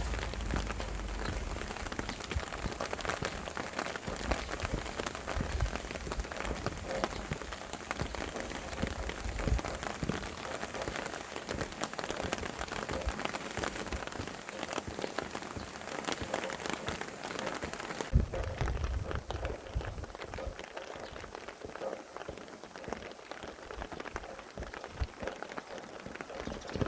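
Steady rain pattering on surfaces in dense, close drops, with a few low gusts of wind rumbling through, one near the start, one about five seconds in and one near the two-thirds mark.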